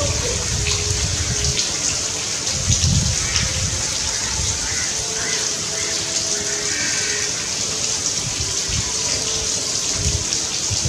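Steady rain falling: a constant, even hiss with low rumbling underneath.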